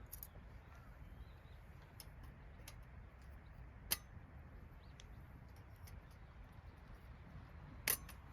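Quiet outdoor ambience with a low rumble, a few faint bird chirps and scattered small ticks, broken by two sharp clicks about four seconds apart, the second near the end being the loudest.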